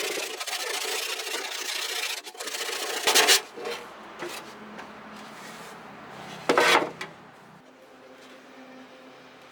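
Steady rasping scrape, like filing or sanding, for about the first three seconds, then two short loud sounds about three and a half seconds apart, and a quieter faint hum after that.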